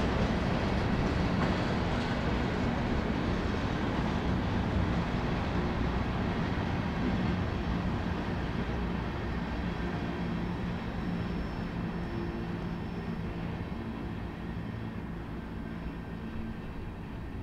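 Union Pacific freight train rolling past on the rails, a steady rumble of wheels and cars that slowly fades as the train draws away.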